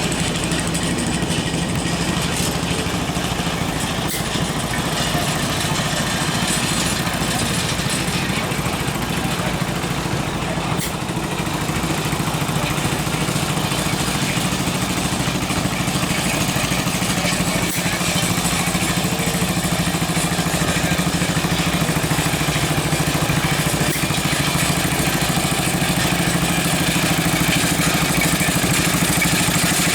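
Small engine of a homemade little tractor running steadily, a little louder near the end.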